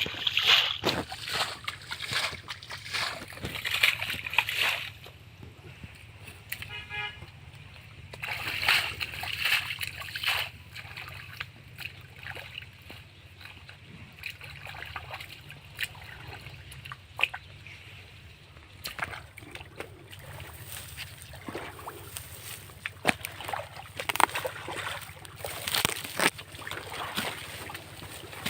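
Shallow muddy river water splashing and sloshing in repeated bursts as people wade and grope for fish by hand. About seven seconds in there is one short, horn-like tone.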